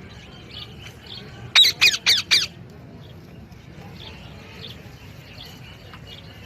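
Parrot squawking: four loud, harsh screeches in quick succession about one and a half seconds in, with faint short chirps before and after.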